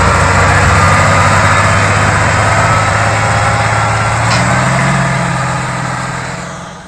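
A motor vehicle's engine running steadily, rising a little in pitch about five seconds in, then fading out near the end.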